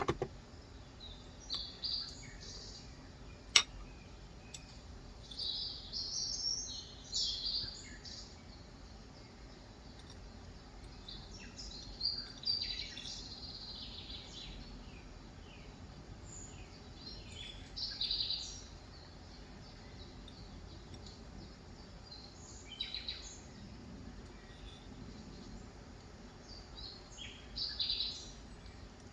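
Songbirds chirping and calling in short bouts over a faint steady hiss of rain. One sharp click about three and a half seconds in.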